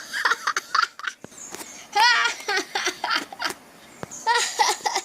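A voice laughing in mocking bouts, a few times over, as the engines jeer at the one being teased.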